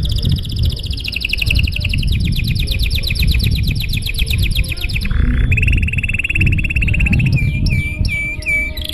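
Domestic canary singing a long song: a fast trill of rapidly repeated high notes for about five seconds, then a lower, even rolling trill, then a few separate swooping notes near the end, over a low background rumble.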